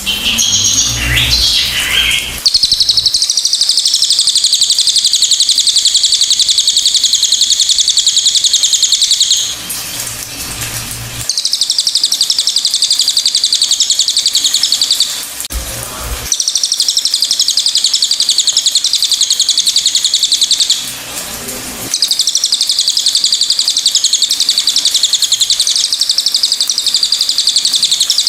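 Cililin bird singing long, rapid, high-pitched trills in four bouts, each lasting several seconds, with brief pauses between them.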